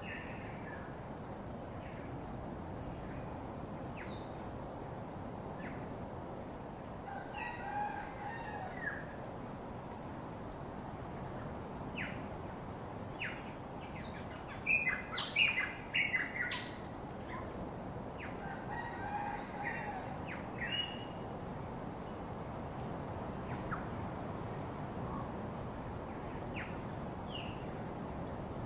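Birds calling: a drawn-out call three times, near the start, about eight seconds in and about nineteen seconds in, and a cluster of quick, sharp chirps in between, loudest just past halfway, over a steady hiss.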